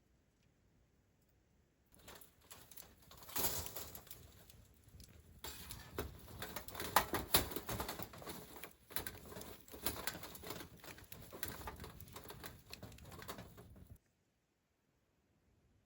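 A bird cooing over a run of clicks and crackles, starting about two seconds in and cutting off suddenly near the end.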